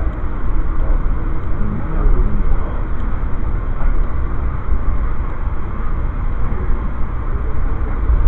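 Steady low rumble and running noise of an Amtrak passenger train in motion, heard from inside the car.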